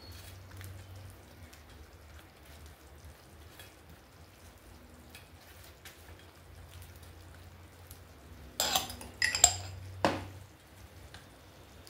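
Metal dishes and utensils being handled in a kitchen: faint light clicks, then a cluster of loud ringing clanks about nine seconds in and one more sharp clank a second later.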